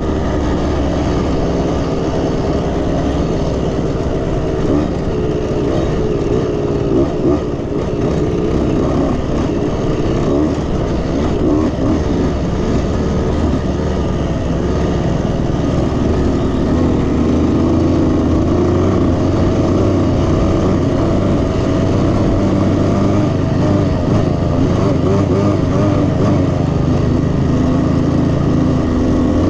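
KTM 65 two-stroke youth dirt bike engine running steadily during a ride, its pitch shifting up and down a little with the throttle.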